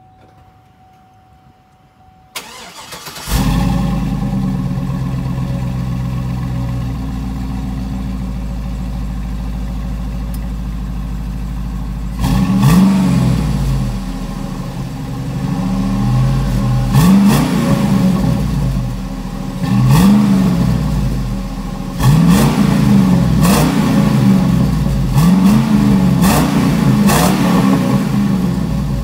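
A 2004 GMC Yukon Denali's 6.0-litre V8 heard at the tailpipe: it cranks and catches about two seconds in, idles steadily for about ten seconds, then is revved again and again in short blips that rise and fall.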